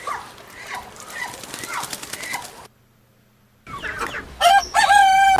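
Muscovy ducks giving short falling peeping calls, several a second. These stop abruptly into a second of silence, and then a rooster starts crowing near the end, one long held crow.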